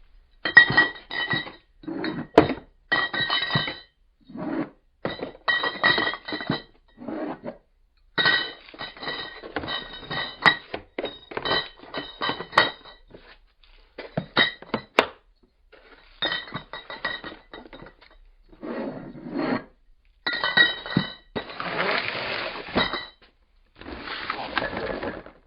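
Empty glass beer bottles clinking and knocking against each other inside a cardboard beer case as it is jostled, in many short bursts with a ringing glass tone. Near the end come two longer, rougher rattles of the bottles being shaken in the box.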